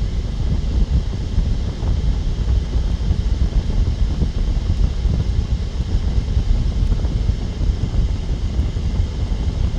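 Wind buffeting the microphone: a steady low rumble with no music or voice.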